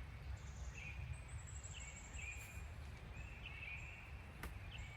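Woodland songbirds calling, short chirping phrases repeated every second or so, with a long high thin trill about a second in, over a low steady rumble. A single sharp click sounds near the end.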